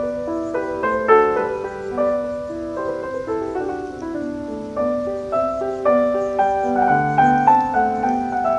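Solo piano music playing, a flowing melody of quick notes over a steady accompaniment.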